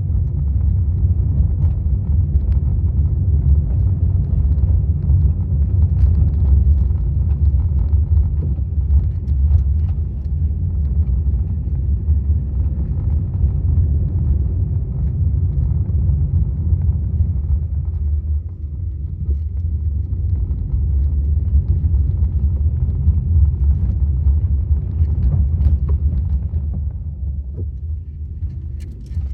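Maruti Suzuki Swift VXi petrol hatchback being driven: a steady low rumble of engine and road noise, easing off a little about two-thirds of the way through and again near the end.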